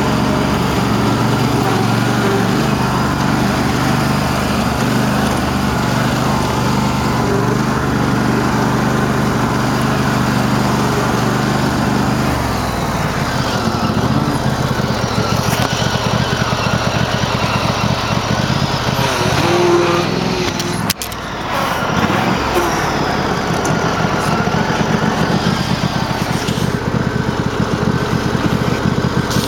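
Cub Cadet garden tractor engine running hard while mudding, which the owner says is running poorly for reasons he doesn't know. It holds a steady note, changes pitch about twelve seconds in, and drops briefly a little past twenty seconds.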